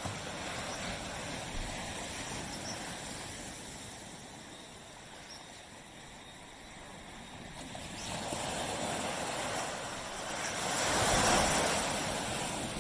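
Waves washing onto a beach: a steady rush of surf that eases off in the middle and swells up twice toward the end.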